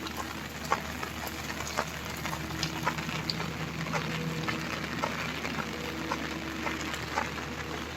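Steady rain falling, with irregular sharp drops striking close by.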